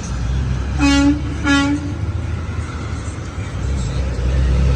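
A truck horn sounds two short toots about a second in, over the steady low rumble of passing engines.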